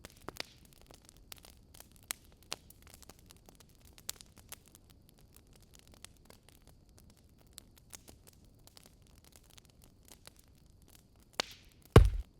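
Wood fire crackling in a fireplace: irregular small snaps over a faint hiss, with a louder double pop near the end.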